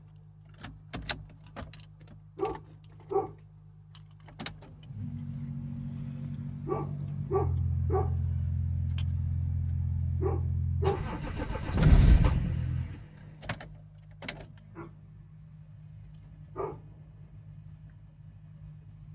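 Dogs barking in short bursts over a low steady engine hum. About five seconds in, a louder steady hum comes up and grows at about seven seconds. At around twelve seconds a loud rough burst comes as the Cherokee XJ's swapped BMW M57 diesel is cold-started at about −6 °C, then the sound settles back to a low steady running hum.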